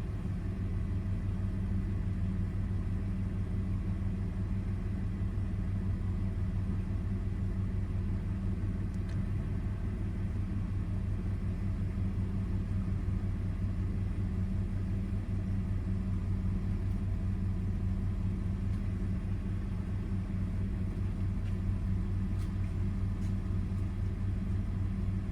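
2002 Toyota 4Runner's 3.4-litre V6 running steadily with a low, even drone, freshly fitted with a new MAF sensor and warming up toward closed loop.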